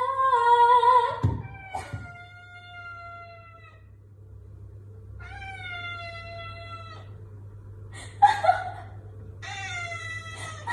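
A domestic cat meowing about five times in long drawn-out calls, several lasting up to two seconds, some sliding down in pitch at the end, with shorter meows near the end.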